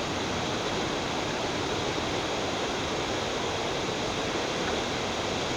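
Steady rushing of the Busra waterfall, an even unbroken roar of falling water.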